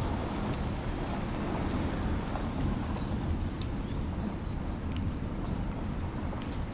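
Steady outdoor rushing noise, heaviest in the low range. Faint, short, high chirps of a small bird repeat through the second half.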